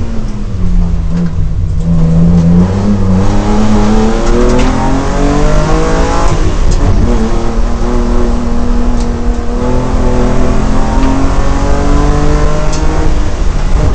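BMW M3 racing engine heard from inside the cabin at full effort. The revs drop over the first two seconds as the car slows for a hairpin, then climb hard under acceleration, with a gear change about six seconds in before they rise again.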